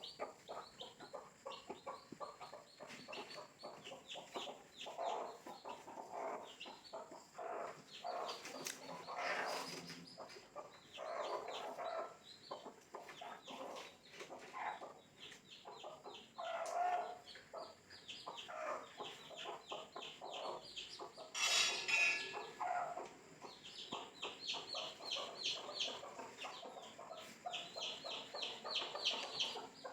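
Young chicks peeping in quick runs of short, high calls, with lower clucking underneath. A brief, louder scratchy noise comes about two-thirds of the way through.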